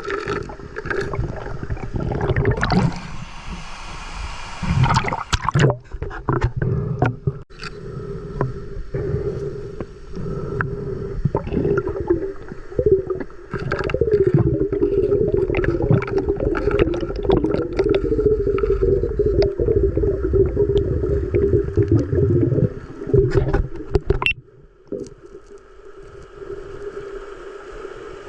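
Muffled, gurgling water noise with a low rumble and scattered scrapes and knocks, as heard underwater.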